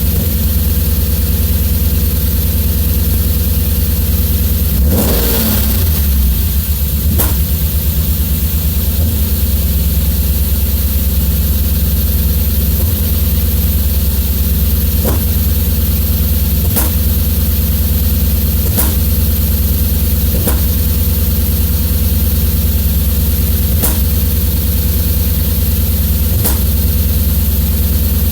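BMW S50 straight-six running warm with a steady low hum, broken by sharp pops every few seconds at irregular gaps: the engine is misfiring. The note briefly changes about five seconds in.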